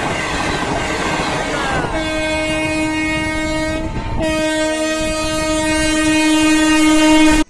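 Train coaches rushing past close at speed on the rails, then a locomotive horn sounding two long steady blasts, the second growing louder as the train approaches, before cutting off suddenly.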